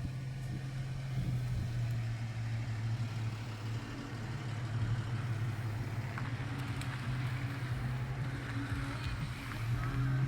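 A car engine running steadily at low revs, a constant low drone that holds without revving up or down.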